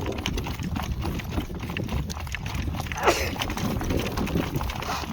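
A horse's hooves beating at a working trot, a steady run of hoof strikes. About three seconds in there is one short, high cry that falls in pitch.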